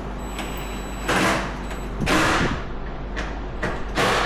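Three short scraping knocks of metal parts being handled, with a steady low hum underneath.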